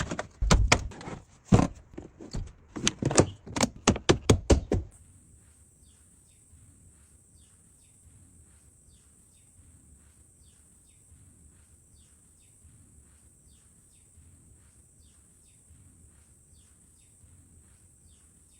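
A quick series of sharp clicks and knocks for about the first five seconds, then faint bird chirps, each a short falling note repeating every half second or so, over a steady high hiss.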